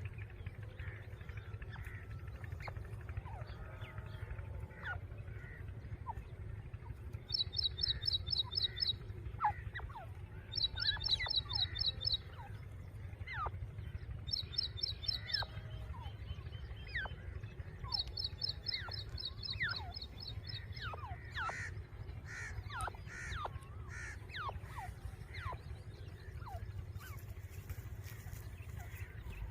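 Several birds chirping with short, varied calls, with a fast, high, evenly pulsed trill heard four times in separate bursts of one to three seconds, over a steady low outdoor rumble.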